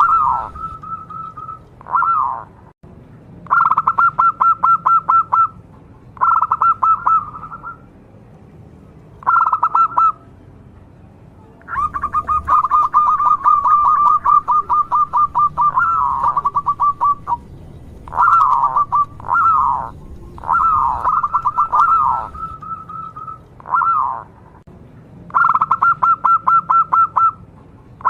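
Zebra dove (perkutut) cooing in repeated phrases of rapid staccato notes, each phrase a second or two long with short pauses between, and one longer run of about five seconds near the middle.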